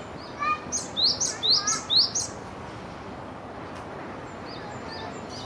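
Japanese tit singing: a quick run of about four repeated high, sweeping notes with lower notes between them, lasting under two seconds.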